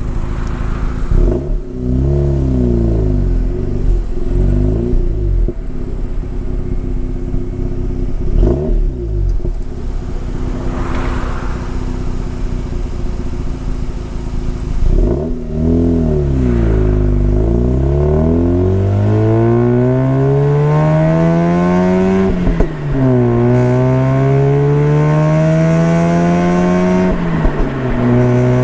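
Mazda RX-8's two-rotor rotary engine through a GANADOR Vertex TITAN muffler. In the first half the revs rise and fall a few times. Then the pitch climbs steadily twice, each climb cut by a sudden drop, once about two-thirds of the way in and again near the end.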